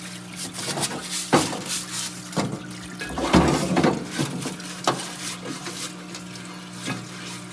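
A few separate knocks and clinks of transmission parts being handled, with a short rattle in the middle, over a steady electrical hum.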